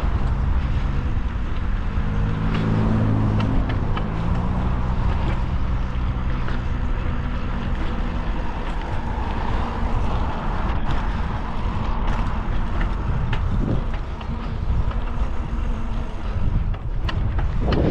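Wind rushing over the microphone of a moving bicycle rider, with the steady engine hum of a passing motor vehicle through the first half, rising slightly in pitch about three seconds in.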